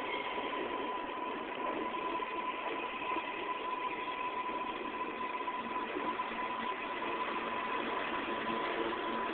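New York City subway train standing at the platform, its equipment running with a steady hum and a constant high-pitched whine.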